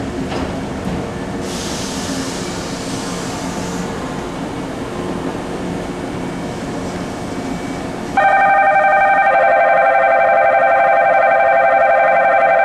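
Electric train standing at the platform, humming, with a hiss of air about two seconds in. About eight seconds in, a loud electronic station departure bell starts ringing with a steady trill.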